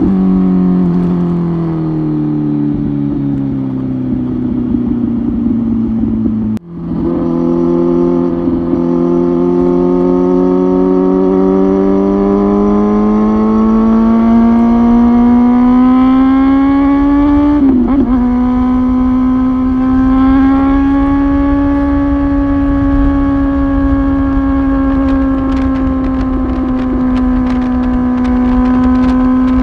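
Kawasaki ZX-10R third-generation inline-four exhaust through a Tyrants titanium muffler, heard from on the bike. The engine note falls for the first six seconds and cuts out for an instant. It then climbs steadily under acceleration for about ten seconds, breaks briefly, and settles into a steady note.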